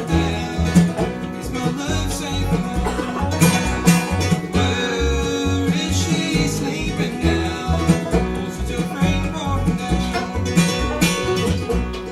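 A bluegrass band playing live, with a banjo and an acoustic guitar picked over a steady bass line.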